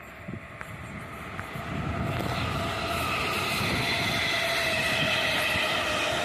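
South Western Railway electric multiple-unit train passing close by, growing louder about two seconds in, with a steady high whine of several tones from its traction motors over the running noise.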